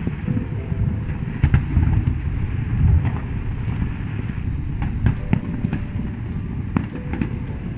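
Fireworks display: a continuous low rumble of bursts, with sharp cracks several times.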